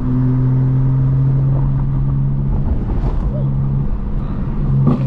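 Straight-piped BMW M4 Competition's twin-turbo inline-six droning steadily at constant revs while driving, with a brief break in the drone about three seconds in.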